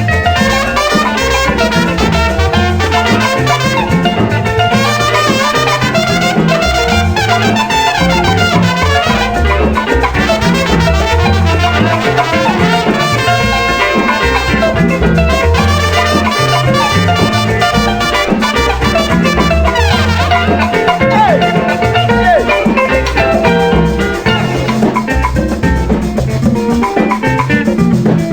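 Instrumental passage of a Tanzanian dance-band (muziki wa dansi) recording: brass and guitars over bass and drum kit, with no singing.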